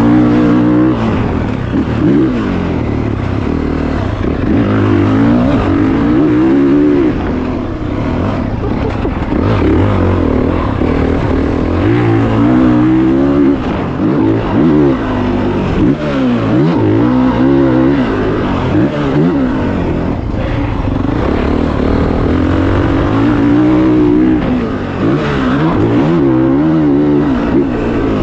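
Motocross dirt bike engine revving hard and backing off again and again, its pitch climbing and falling every second or two with the throttle and gear changes.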